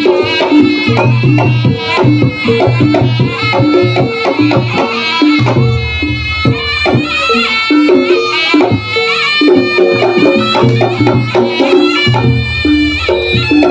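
Live jaranan ensemble music: hand drums beating a driving rhythm under repeating struck gong notes and deep gong tones. Above them runs a wavering, high melody line.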